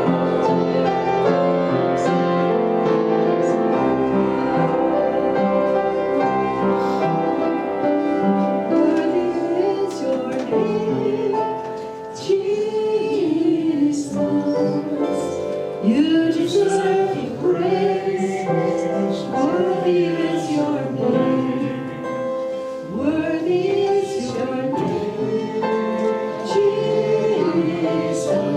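Church worship song: keyboard or piano chords play alone at first, then voices come in singing the melody about twelve seconds in.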